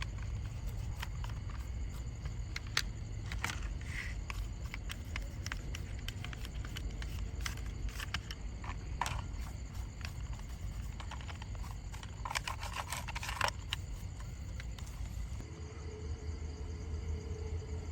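Scattered light clicks and taps with a short scraping stretch, over a steady low hum that changes about three quarters of the way through, when a faint steady tone sets in.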